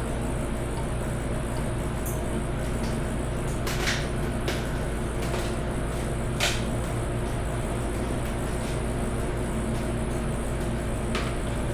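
A few short, sharp metal clinks of tools and parts being handled on an engine under teardown, the loudest about four and six and a half seconds in, over a steady background hum.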